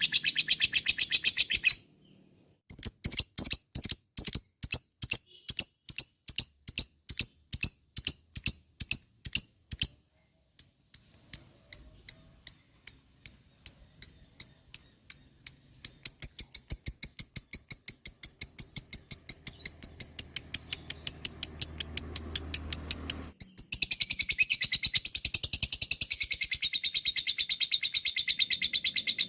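Lovebird's 'ngekek': a long, rapid series of sharp, high chattering calls at about four to six a second, pausing briefly twice, then speeding up and growing louder and fuller near the end.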